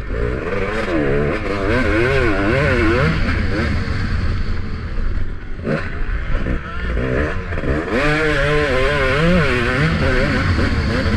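Motocross dirt bike engine revving up and down rapidly as the throttle is worked over track bumps, eased off briefly about midway, then opened up again, heard through a helmet-mounted camera with wind rumble underneath.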